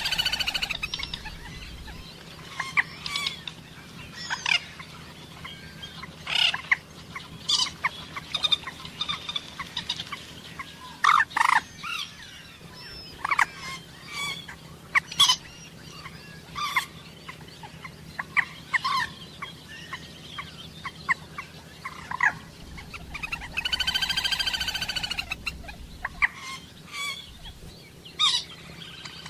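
Common moorhens calling: a string of short, sharp calls at irregular intervals, and one longer call of about three seconds a little past two-thirds of the way through.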